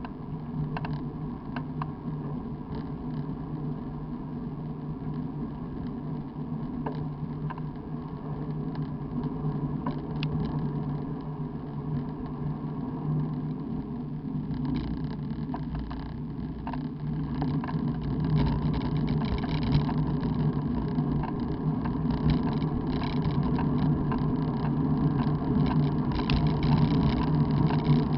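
Steady road noise from movement along a road: a constant low hum with a noisy wash over it and scattered light clicks, growing louder over the last ten seconds.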